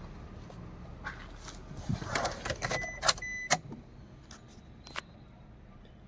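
Handling noises in and around a car: a scattered run of clicks and knocks, like a door, its handle and keys, with two short electronic beeps about three seconds in.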